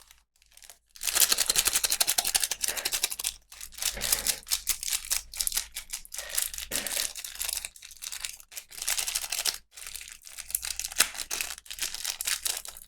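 Packaging being crinkled and torn open by hand during a toy unboxing: a dense, crackly rustle that goes on with short pauses.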